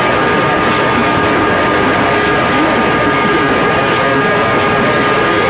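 CB radio receiver on channel 6 (27.025 MHz) hissing with heavy static, with several steady whistle tones from carriers keyed up on top of one another and faint garbled voices buried in the noise.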